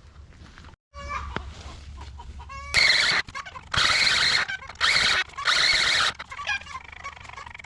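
Chickens clucking in short calls, then from about three seconds in a run of loud squawks in bursts of under a second.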